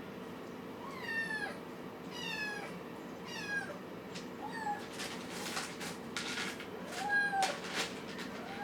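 Kittens mewing: about five short, high-pitched calls, each falling in pitch, with a few short crackly noises among the later ones.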